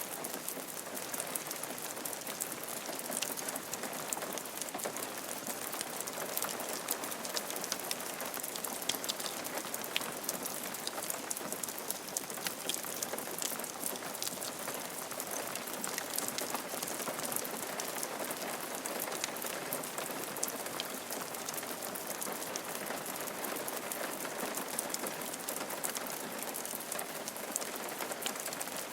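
Steady rain falling on a roof, a dense even hiss with many separate drops pattering through it.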